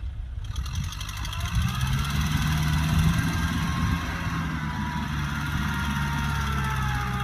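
Kubota tractor's diesel engine running steadily, getting louder about a second and a half in, then holding an even note.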